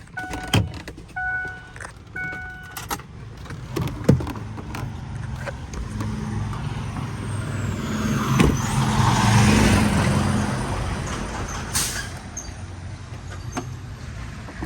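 A repeating electronic chime beeping about twice a second stops about two and a half seconds in, followed by scattered clicks and knocks. Then a rush of vehicle noise with a low hum swells, peaks about two thirds of the way through and fades away.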